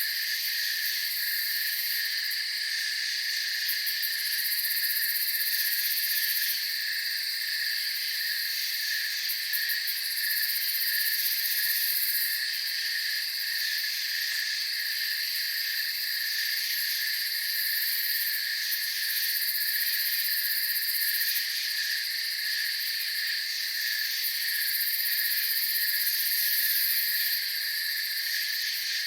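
Night chorus of crickets and other insects: a steady, pulsing cricket trill with a higher steady chirring over it, and a very high insect buzz that comes and goes every few seconds.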